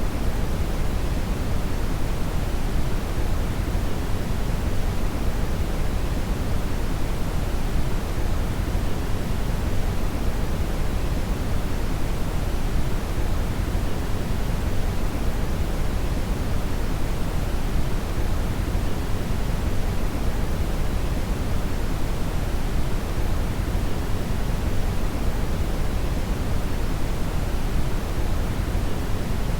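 Brown (red) noise: a steady, even hiss-like rumble with most of its energy in the low end, unchanging throughout.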